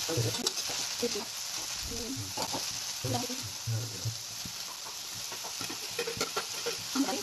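Elephant foot yam and greens sizzling in oil in a steel kadai, with a metal spatula stirring and scraping against the pan in short knocks and scrapes.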